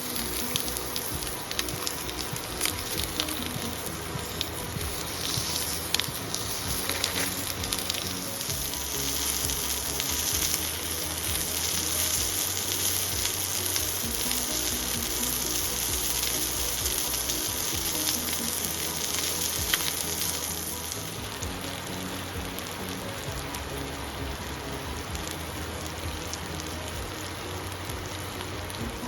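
Food sizzling and crackling as it fries in a pan, a steady hiss that eases off about two-thirds of the way through, with faint background music underneath.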